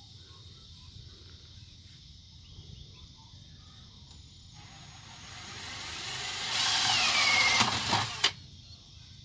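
Power drill turning a 20 mm spade bit through the top of a water tank, building up over a few seconds, with a falling whine near the end, then stopping abruptly.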